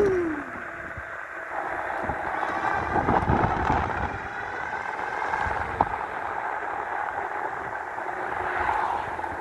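Electric bike riding at speed: steady road and tyre noise with wind on the microphone. There are heavier gusts of wind rumble about three seconds in.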